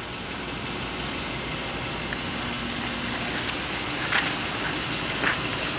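Steady rushing background noise that grows slightly louder, with a couple of faint clicks about four and five seconds in.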